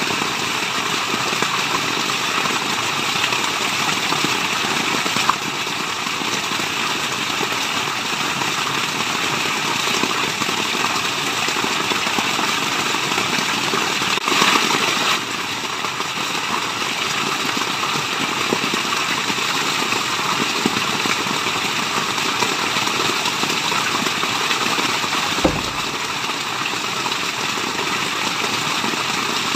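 Steady rushing water of a waterfall, an even continuous roar of noise. There is a slightly louder surge about halfway through and a brief low thump near the end.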